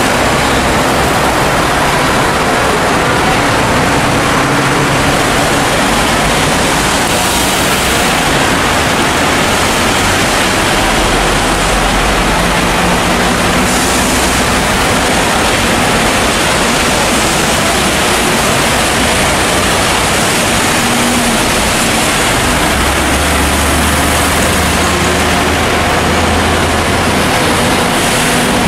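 Heavy rain falling in a loud, steady hiss, with a faint low hum of traffic engines underneath.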